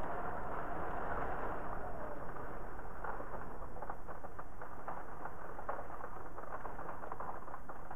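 Steady rain with wind. From about three seconds in, a busy patter of separate drops comes through.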